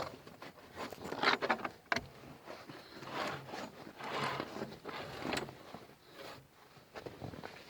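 Irregular scraping and rubbing, with a sharp knock at the start and another about two seconds in: hands working the homemade sawmill's belt and pulley by hand while the mill is not running.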